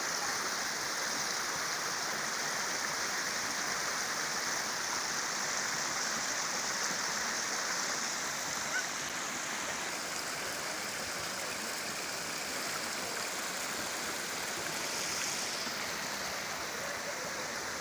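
Steady rushing of flowing river water, an even wash of noise with no break.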